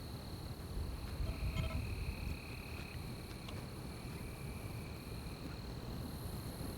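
Night insects, crickets or katydids, trilling steadily at a high pitch, with a second, lower chorus fading in and out. A low rumble swells about a second in, and a brief short call sounds near the middle of that swell.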